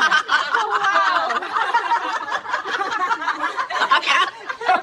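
People laughing hard, with giggles and chuckles, in reaction to a joke.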